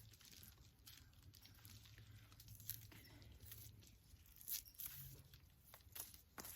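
Faint tearing, crackling and crunching of roots and soil as a clump of ginger rhizomes is pulled apart by hand, with a few sharper snaps.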